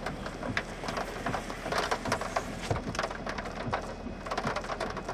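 Raindrops tapping irregularly on the vehicle's windshield and body, heard from inside the car.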